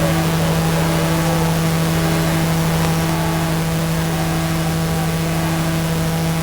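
A steady low hum with a strong single pitch and evenly spaced overtones, over a constant hiss, unchanging throughout.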